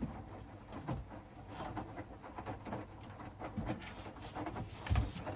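Hoover washer-dryer mid-wash, its drum turning so the wet bed linen tumbles with irregular soft thumps and sloshing over a low motor hum, with one heavier thump about five seconds in.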